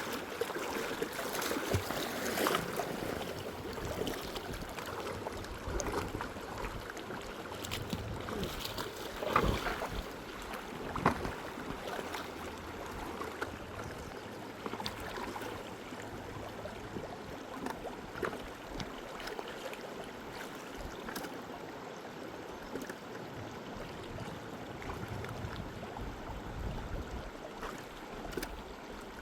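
River water rushing and washing steadily, with a few sharper splashes or knocks about a third of the way in.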